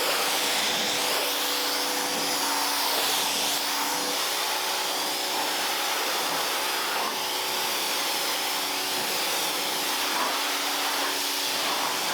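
Pressure washer running steadily: a motor hum under the hiss of the water jet, which shifts in tone as the spray moves over the car body during a plain-water rinse.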